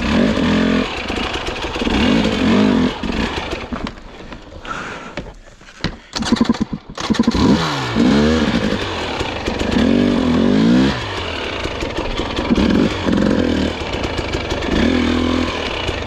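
Dirt bike engine revving in repeated bursts, the pitch swinging up and down. About four seconds in the engine drops away, a few sharp knocks and clatters follow, then the revving picks up again with rising sweeps.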